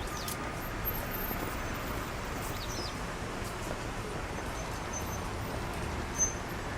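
A few short, high bird calls, the sharpest one about six seconds in, over a steady background hum of distant traffic.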